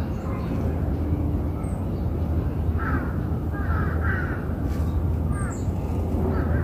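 Outdoor ambience: a bird calling several times in the second half, over a steady low hum.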